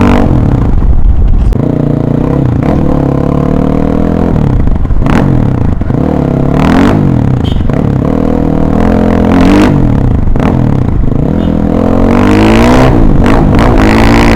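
Motorcycle with the dB killer (exhaust baffle) removed, running loud on the move. Its engine note rises and falls repeatedly as it accelerates and eases off.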